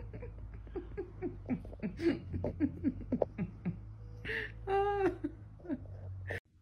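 A person laughing in a run of short, quick bursts, about three or four a second, with a longer drawn-out sound about five seconds in.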